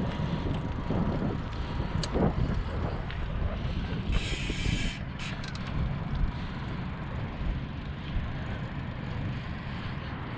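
Steady low rumble of wind buffeting the microphone along with road noise, with a short hiss about four seconds in.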